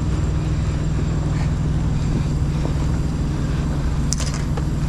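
Steady low rumble of an idling engine, with a brief click about four seconds in.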